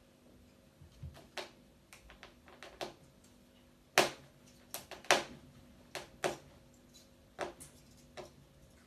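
A scattered series of light clicks and taps at irregular spacing, the loudest about four and five seconds in, over a faint steady hum.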